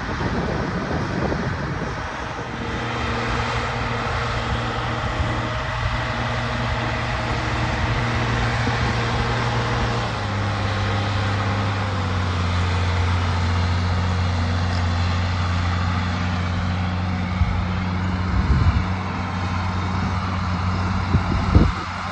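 Tractor engine running steadily under load while pulling a moldboard plow, its pitch dropping a little about halfway through. A couple of brief thumps near the end.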